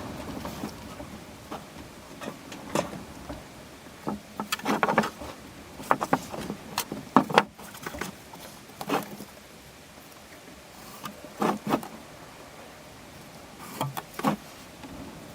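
Irregular sharp knocks and clicks of tools and objects being handled at a workbench, with a busier cluster around the middle.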